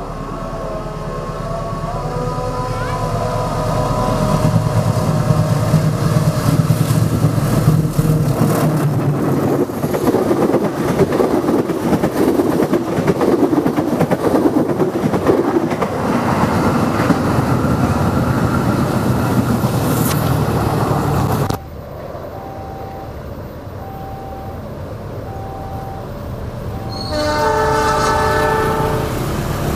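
Diesel-hauled passenger train passing close by, its air horn sounding at the start and the noise of engine and wheels on the rails building to a loud, steady rumble. After an abrupt cut, a quieter stretch with a repeating beep, then another multi-tone horn blast near the end.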